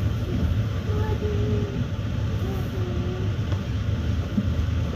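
Passenger train running at speed, heard from inside the carriage: a steady low rumble of the wheels and running gear on the rails.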